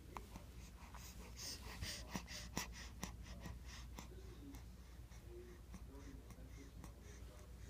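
Close breathing with short breathy puffs and a few sharp clicks about one to three seconds in, then fainter short low sounds.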